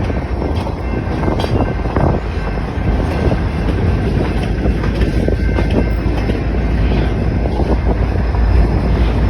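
Freight train rolling by: a loud, steady rumble with scattered knocks and clicks from the wheels and cars.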